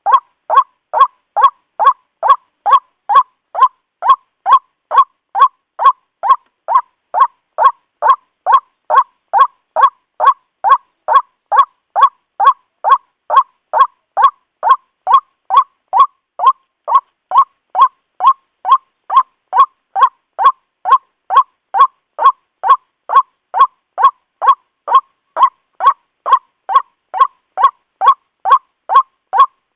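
Recorded call of a white-breasted waterhen (ruak-ruak), played as a lure call for trapping: short, loud notes repeated about twice a second in a steady, unbroken loop.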